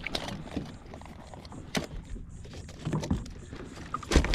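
A redfish thrashing on a kayak, giving scattered knocks and rattles against the hull and gear, loudest near the end.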